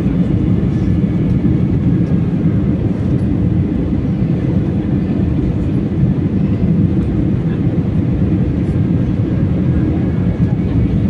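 Steady low rumble of an airliner's engines and airflow, heard from inside the passenger cabin during the landing.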